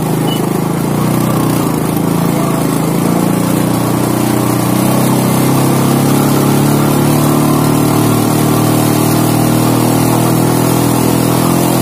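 An old small motorcycle engine running steadily, its pitch and level rising a little partway through.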